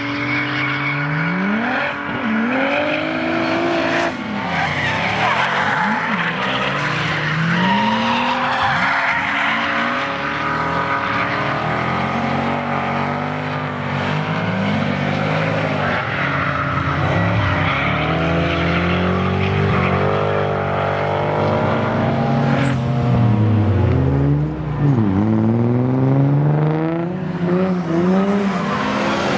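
Nissan 240SX's swapped-in VR38DETT twin-turbo V6 revving up and down again and again while drifting, with tyres squealing and skidding.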